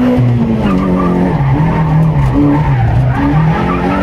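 Rally car's engine heard from inside the cabin under hard driving. Its revs drop about half a second in, then rise and fall several times as the driver works the throttle and gears through a tight turn.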